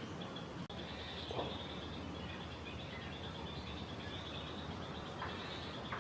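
Outdoor wildlife ambience: a steady high-pitched pulsing chorus, with a few short calls about a second and a half in and again near the end.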